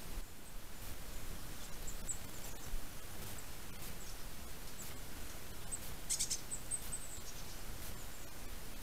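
Small birds giving short, high, thin calls, scattered at first and clustered about six seconds in, over a steady background hiss.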